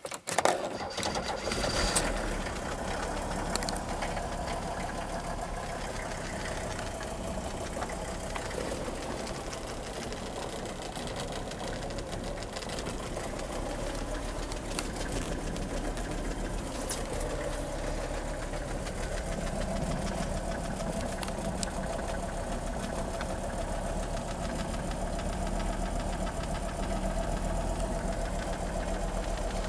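Mercedes-Benz OM617 five-cylinder diesel in a 300TD wagon starting from cold: it catches suddenly in the first second, then settles into a steady idle with the knock of a diesel.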